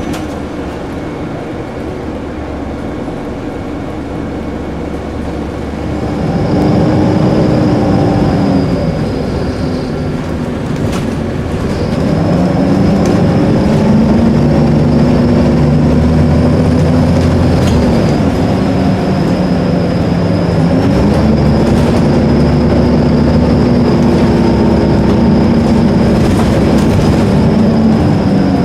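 Diesel bus engine pulling away and accelerating: its pitch climbs, then drops at each automatic gear change, three climbs in all. A steady thin high whine sits above it through most of the pull.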